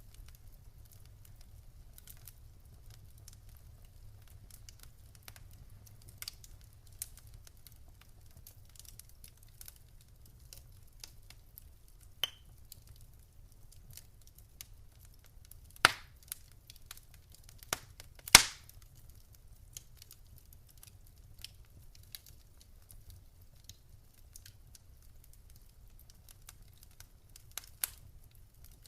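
Wood fire in a fireplace crackling: scattered small clicks and snaps, with two sharp, loud pops a couple of seconds apart past the middle, over a faint low rumble of the flames.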